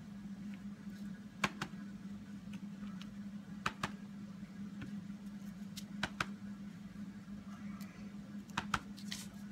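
Light taps and clicks of a rubber stamp being inked and pressed onto card stock on a tabletop, several coming in quick pairs. A steady low hum runs underneath.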